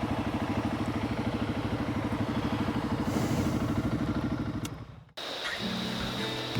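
Honda CRF300 Rally's single-cylinder engine idling with an even beat, then switched off about five seconds in. Acoustic guitar music starts just after.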